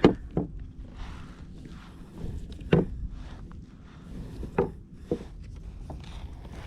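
A handful of sharp, scattered knocks and thumps against the kayak, about five in all, over a steady low rumble.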